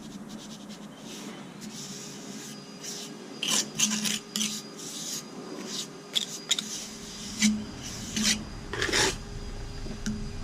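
Steel hand trowel scraping and working a stiff, dry sand-and-portland concrete mix, in a run of irregular scraping strokes.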